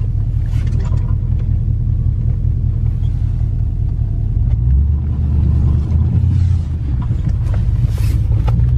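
Vehicle engine running with a low, steady rumble that grows louder about five seconds in.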